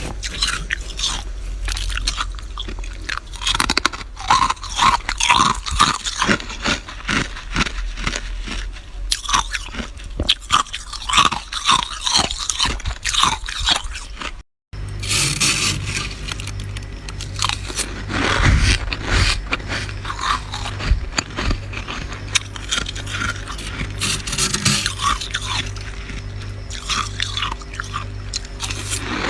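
Close-up crunching and chewing of flaky freezer frost, a dense run of sharp crackling crunches. After a brief cut about halfway, a low hum pulsing about once a second runs underneath.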